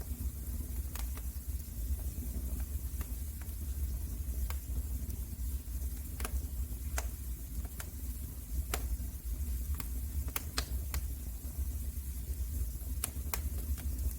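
Wood fire crackling in a fireplace: a steady low rumble of flames with scattered sharp pops and snaps at irregular intervals.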